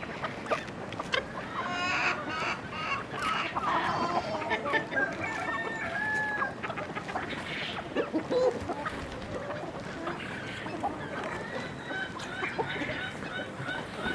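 Chickens clucking and calling, several birds at once, with a longer drawn-out call about five seconds in.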